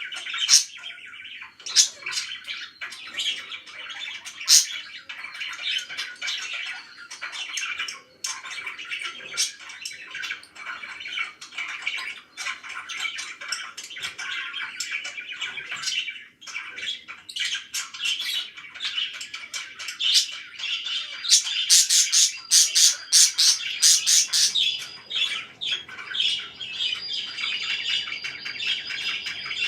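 Pet parakeets chirping and chattering steadily, with a run of loud, sharp squawks about two-thirds of the way through.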